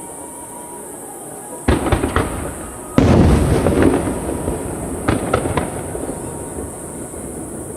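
Aerial firework shells bursting: a sharp bang about two seconds in, then a louder boom a second later that rumbles away slowly, followed by crackling.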